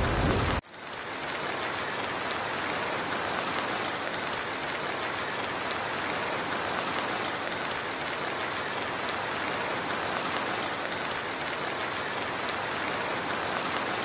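Steady rain falling: an even, unbroken hiss of rain on a surface. A louder sound cuts off about half a second in, and the rain stops suddenly just before the end.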